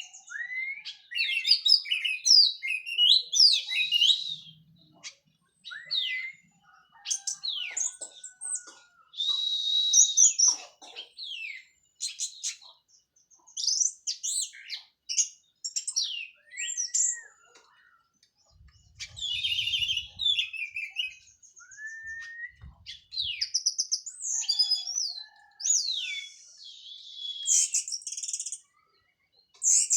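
Orange-headed thrush singing in full voice: a long run of varied, rapid phrases of whistles, trills and sweeping notes with short pauses between them. It is a bird just out of its moult and back in song.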